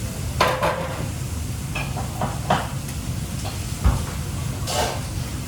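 Kitchen work clatter: several short clanks and knocks of pans and utensils over a steady low rumble, with a dull thump about four seconds in.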